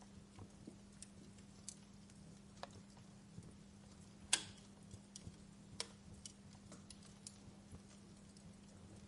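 Wood fire in a fireplace crackling: burning logs giving irregular small snaps and pops, with one sharper, louder pop a little past four seconds in.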